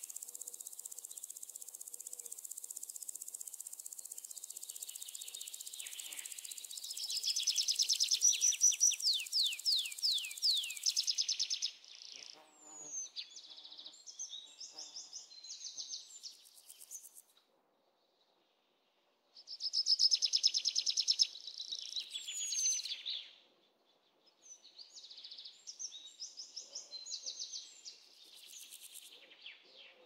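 High-pitched bird calls: a steady buzzing trill for the first several seconds, then bursts of rapid downward-sweeping chirps, broken by two short silences.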